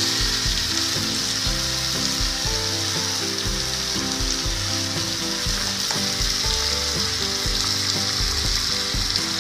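Raw jackfruit, potato and tomato chunks sizzling steadily in oil in a frying pan on a medium gas flame while a wooden spatula stirs them, the spice masala being sautéed.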